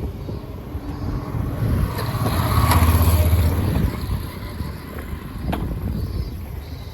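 A motor vehicle passing close by on the street. Its engine and tyre rumble swells to a peak about three seconds in, then fades away.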